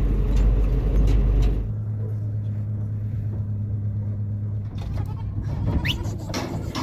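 A vehicle engine running, its heavy low rumble settling into a steadier hum about two seconds in. Bleating from the flock comes in near the end.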